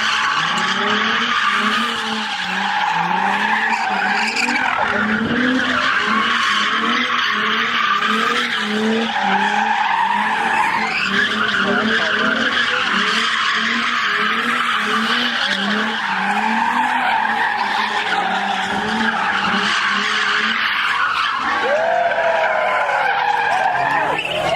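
A car's tires squealing steadily while it spins donuts, its engine revving up and down in a quick repeating cycle as the driver works the throttle.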